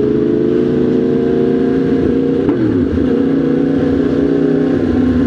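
Motorcycle engine running at a steady, fairly low speed, its pitch holding even apart from a brief wobble about halfway through.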